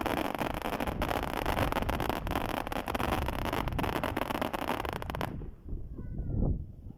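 Fireworks crackling: a dense, continuous crackle of many small pops for about five seconds that cuts off suddenly, over wind rumble on the microphone.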